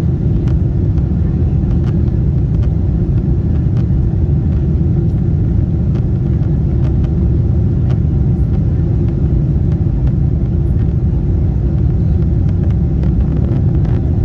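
Steady, loud, low rumble of a Lufthansa Boeing 747-8 with its engines running during departure.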